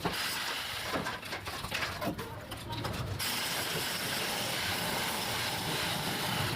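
Excavator loading debris: irregular clattering and knocking over machine noise, then, about three seconds in, a steady loud hiss takes over.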